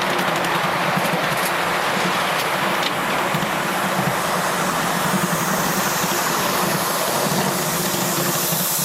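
Miniature railway train running along the track: a steady, loud running noise with a low hum underneath and a few faint clicks.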